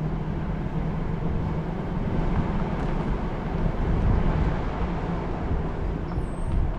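Vehicle driving along: a steady low engine hum with road noise.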